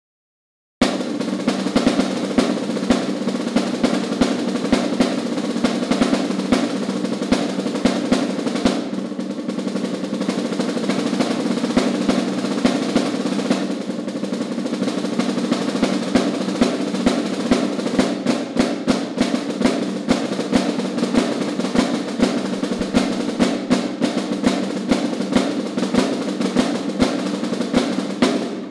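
Solo snare drum played with sticks: fast rolls and dense strokes with frequent sharp accents. It starts about a second in, eases off briefly twice, and drops away suddenly near the end.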